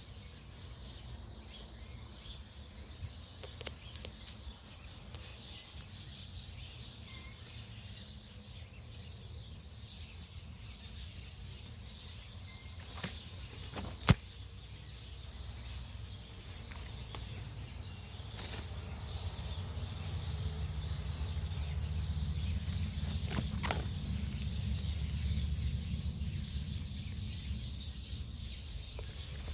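Rural outdoor ambience: birds chirping faintly over a steady low rumble that grows louder about twenty seconds in. A few sharp clicks, the loudest about fourteen seconds in.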